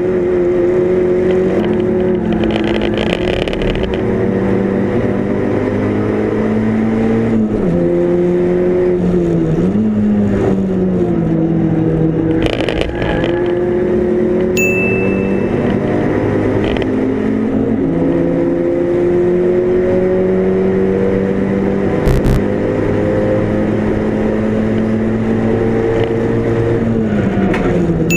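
Mk5 Golf GTi race car engine at racing speed, its pitch climbing for long stretches under full throttle and dropping sharply several times at gear changes and braking. A brief high beep sounds about halfway through, and a short knock comes near the two-thirds mark.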